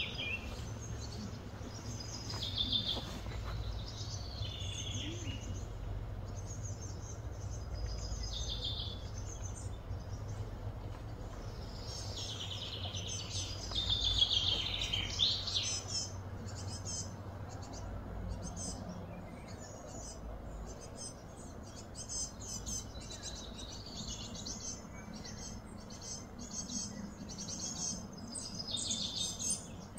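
Small birds chirping and trilling in short, repeated calls, busiest about halfway through, over a steady low hum.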